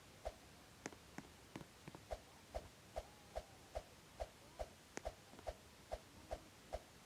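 Faint, even ticking, about two and a half ticks a second, with a few sharper clicks mixed in.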